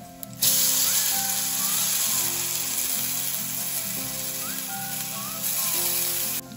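Soaked fenugreek seeds sizzling loudly in hot mustard oil in a steel wok. The sizzle starts suddenly about half a second in and cuts off suddenly near the end.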